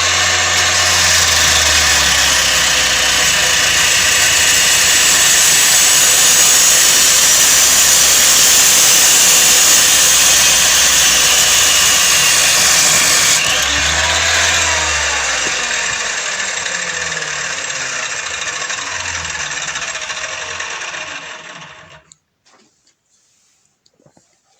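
Homemade cut-off saw driven by a 2 kW, 230 mm angle grinder, running at full speed with a dense, high-pitched whine. About 14 seconds in it is switched off, and the motor and disc wind down with a falling whine until they stop about 22 seconds in.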